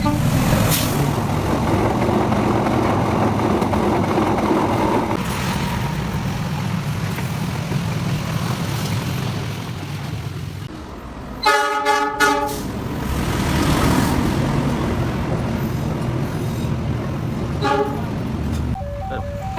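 Diesel locomotive engine running steadily, with its horn sounding two short blasts about halfway through.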